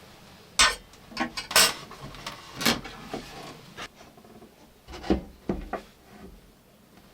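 Small objects handled by hand: an irregular run of knocks, clatters and rubbing, as of wooden and tableware items being set down and moved, with the sharpest knocks about half a second in, around one and a half seconds in, and about five seconds in.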